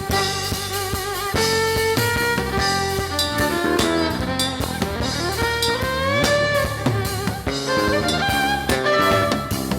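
Live band playing an instrumental passage of an Afro-fusion song: drum kit keeping a steady beat under guitar and horn-like melody lines.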